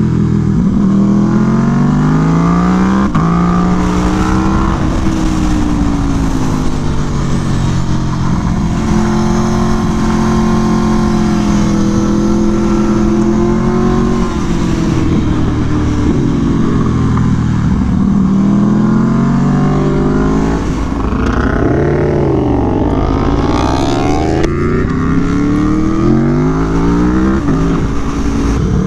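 Aprilia Tuono V4 1100 engine, with an SC Project exhaust, at racing speed on track. The revs climb in steps through the gears and fall back several times on braking and downshifts, over a steady rush of wind.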